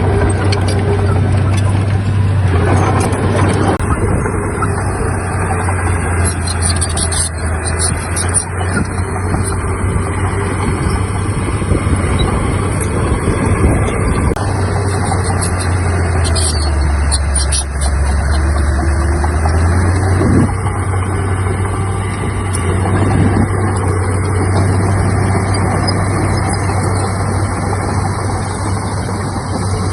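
Heavy earthmoving diesel engine running steadily under work. Its note drops for a few seconds about two-thirds of the way through, then comes back up.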